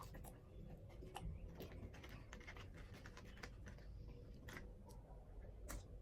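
Faint, irregular small clicks and crackles of eating and handling food, with mouth and chewing noises.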